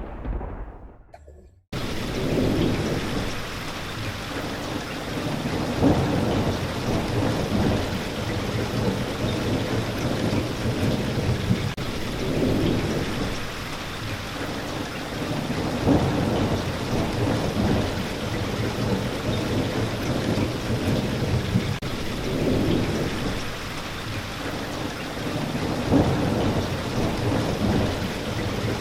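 Steady rain with low thunder rumbles swelling every few seconds. In the first couple of seconds the sound fades away to near nothing and then cuts back in abruptly, like the joint of a looped recording.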